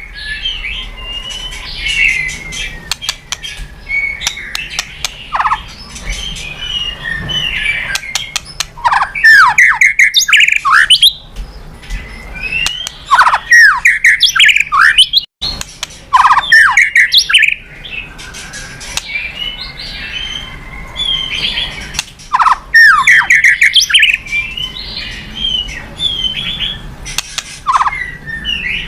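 White-rumped shama (murai batu) singing a loud, varied song: whistled phrases that sweep up and down, mixed with rapid sharp clicks. The song breaks off briefly about halfway through.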